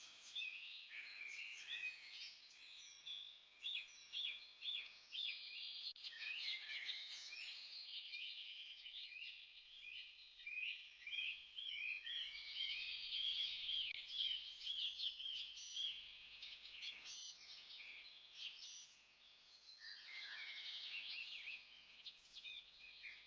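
A chorus of small birds chirping and singing, with many quick overlapping twitters and a short lull near the end.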